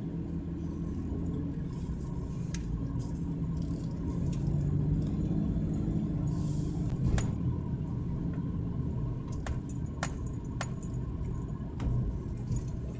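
A car moving slowly, its engine and tyres making a steady low rumble, with a few sharp light clicks and rattles scattered through.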